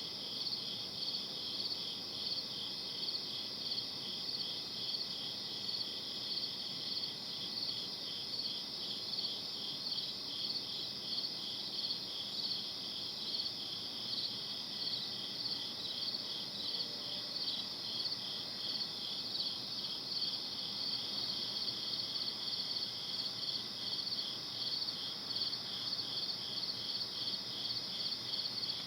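Crickets chirping in a steady night chorus, an even, unbroken pulsing of high chirps over soft background hiss.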